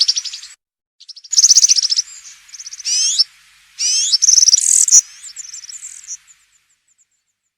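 European serin (verdecillo) singing its fast, high-pitched jingling song in wild field style, in bursts of rapid notes that trail off about six and a half seconds in.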